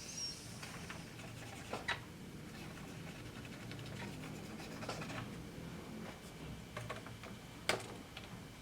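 Light clicks and scraping from handling small plastic parts on a workbench, with a few sharper clicks, the loudest near the end.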